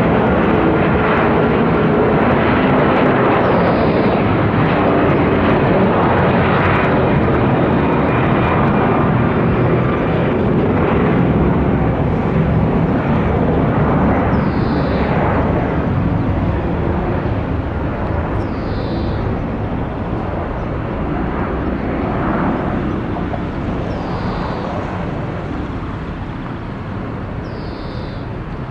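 Jet engines of an Airbus A330 airliner climbing out after takeoff: a steady, loud jet noise that slowly fades as the plane moves away. A faint short chirp sounds about every four seconds.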